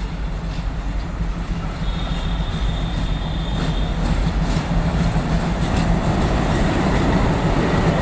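A train running on the rails, its steady low rumble growing gradually louder, with faint wheel clicks over the rail joints. A thin high whine is heard for a couple of seconds about two seconds in.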